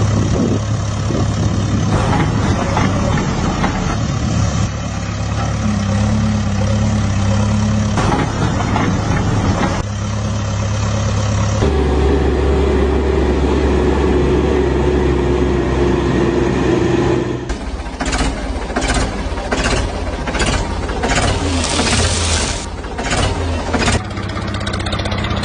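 Tractor engine running steadily, its note shifting abruptly a few times. In the last several seconds it turns into a regular chugging, about two beats a second.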